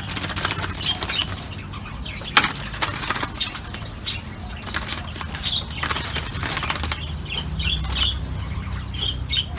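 Zebra dove (merbok) flapping its wings in repeated flurries, with short high chirps scattered through.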